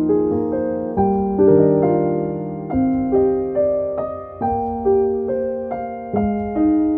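Slow, gentle piano music: soft notes and chords struck every half second or so, each ringing and fading.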